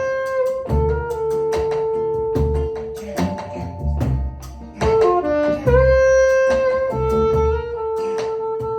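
Band playing an instrumental passage: a lead instrument holds long notes over a bass line and drums.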